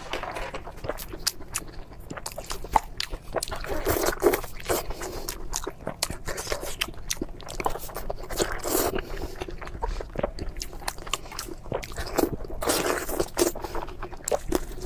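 Close-miked eating of crispy food: a steady, irregular run of crisp crunches and crackles from biting and chewing.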